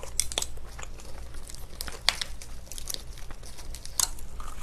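Eating sounds picked up close: irregular crisp crackles and crunches of a lettuce wrap with spicy stir-fried pork being bitten into and chewed.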